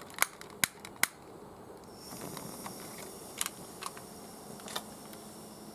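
Three loud sharp clicks in the first second as the gas burner under a Mamod SP8 steam engine's boiler is lit, then from about two seconds in a steady hiss of the propane gas flame, with a few lighter ticks.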